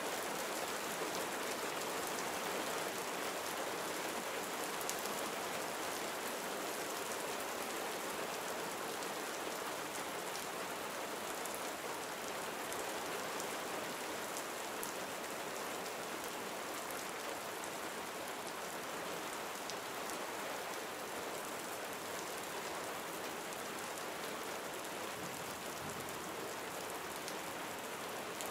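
Gentle summer rain falling steadily, an even hiss with many small drops pattering on surfaces.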